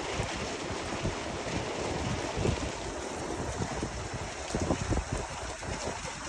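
Pea-sized hail pelting down heavily, a dense, steady patter of hailstones on the ground, with irregular low gusts of wind buffeting the microphone.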